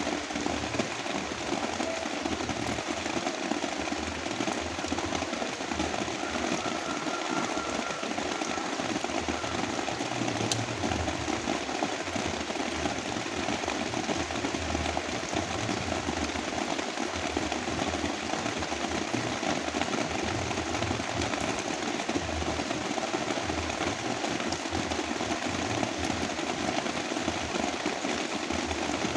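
Heavy rain mixed with brown noise: a steady, dense hiss and rumble that never lets up.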